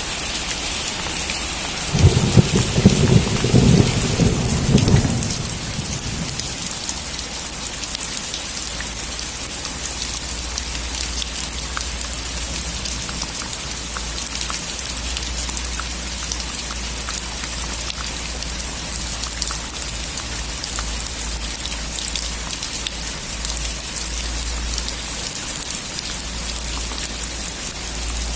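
Heavy rain drumming on a metal roof, with a loud clap of thunder rumbling about two seconds in and fading by about six seconds.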